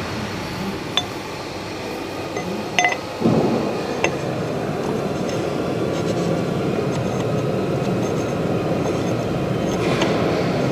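A few light metallic clinks of small metal parts or tools. About three seconds in, a steady mechanical running noise starts and keeps going.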